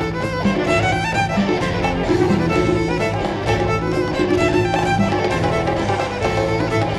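Celtic fiddle tune played at a fast, driving pace over a full band, with the violin carrying the melody above a steady beat.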